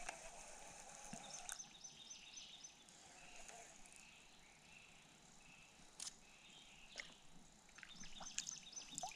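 Faint bird chirps, a series of short high calls, over quiet riverside ambience, with a few light clicks now and then.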